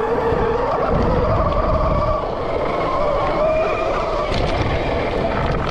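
Electric dirt bike (RAWRR Mantis) riding over dirt, its motor whining and wavering in pitch with speed, over a heavy low rumble of wind buffeting the microphone.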